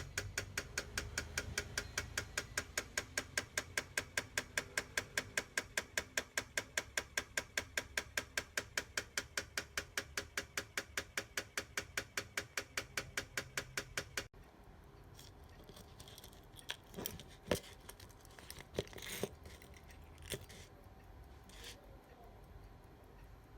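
Mechanical watch movement ticking close up, a steady beat of about five ticks a second. It cuts off about 14 seconds in, followed by a few faint scattered clicks and taps.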